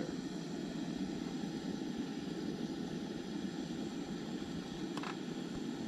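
Steady roar of a camp stove burner running high, with hot Italian sausage browning in the pan on it.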